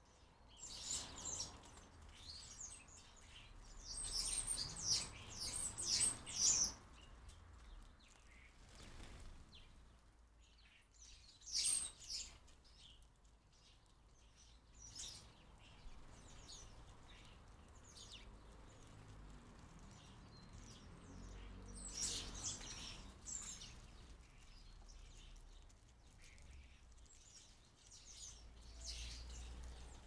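Small garden birds chirping and calling in short scattered bursts of high notes, busiest a few seconds in and again in the middle.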